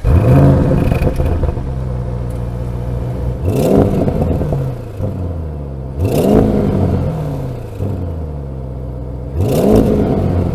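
Audi RS 7's 4.0-litre twin-turbo V8 at idle, revving sharply at the start and settling back. It then gets three quick throttle blips, each rising and falling back to a steady idle about every three seconds.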